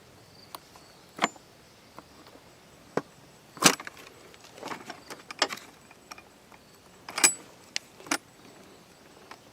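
Hand tools clicking and clinking against metal parts, about ten separate sharp knocks at irregular spacing, the loudest about three and a half seconds in.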